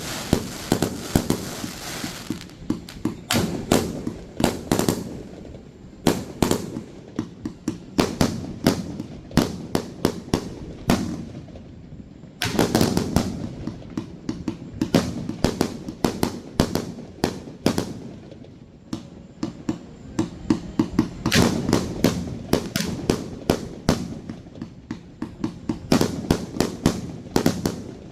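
Aerial fireworks going off in a rapid barrage, a dense run of sharp bangs several a second. There is a spell of crackling in the first couple of seconds and another that starts suddenly about twelve seconds in.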